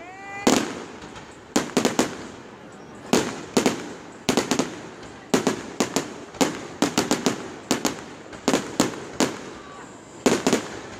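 Aerial firework shells bursting in an irregular run of sharp bangs, many coming in quick clusters of two to four, each trailing off before the next.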